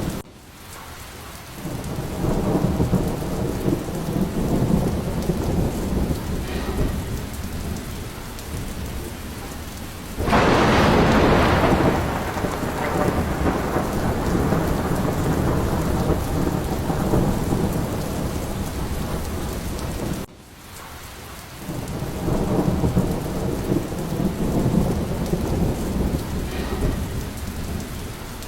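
Thunderstorm: steady heavy rain with rolling thunder rumbling low throughout. A loud thunderclap breaks about ten seconds in, lasts about two seconds and fades back into rumble. The sound drops suddenly for a moment at the start and again about twenty seconds in.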